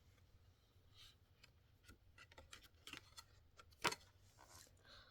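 Near silence with faint rustling and small clicks of a picture book's pages and flap being handled, and one sharper click about four seconds in.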